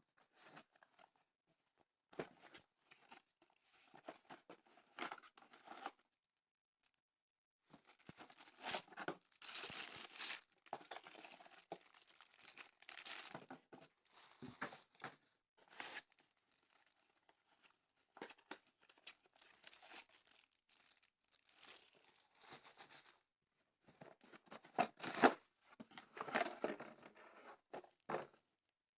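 Irregular bursts of rustling and crinkling, a second or less each, with dead-silent gaps between them.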